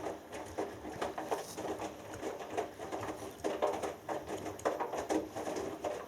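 Hoover Dynamic Next front-loading washing machine tumbling a 6 kg cotton load in the wash: wet laundry and water sloshing in the drum in irregular swishes, with light knocks.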